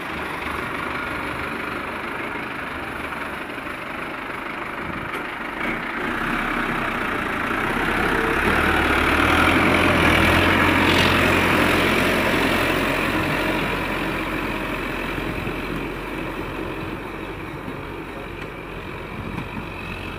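Tractor engine running, growing louder to a peak about halfway through and then fading again, as if the tractor comes close and moves away.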